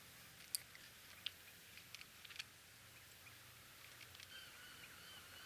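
Near silence with a few faint, sharp clicks. From about four seconds in comes a faint, repeated high chirp.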